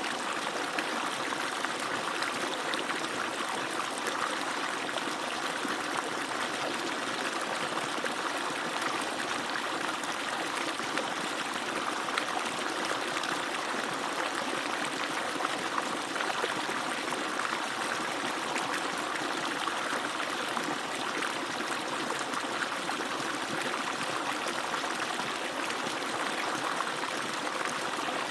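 Water pouring steadily from an agricultural pump's outlet pipe and splashing as it falls, a continuous even rush with small splashes through it.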